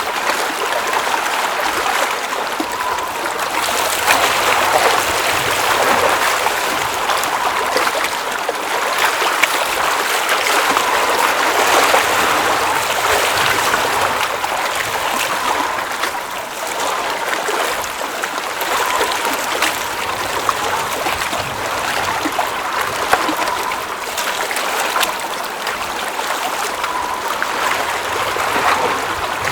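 Water running and splashing at a steady level, with a continuous bubbling and trickling texture.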